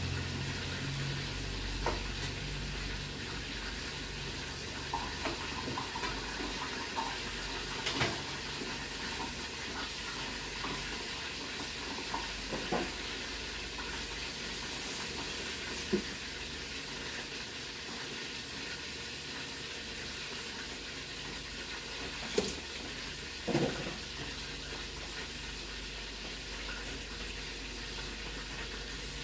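Food sizzling steadily in a frying pan over a gas burner, with a few sharp knocks now and then of the spatula against the pan.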